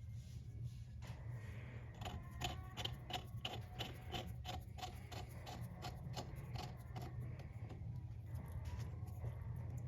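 Ratchet clicking in an even rhythm, about three to four clicks a second for some six seconds, while a chain press tool is wound onto a motorcycle drive chain.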